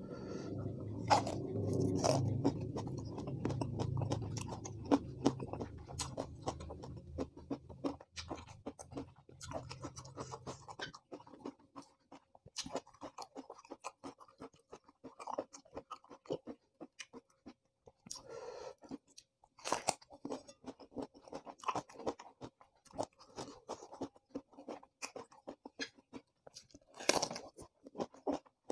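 Close-miked chewing of raw eggplant dipped in sambal: wet crunches and mouth clicks at an uneven pace. A low hum runs under the first ten seconds or so and then stops.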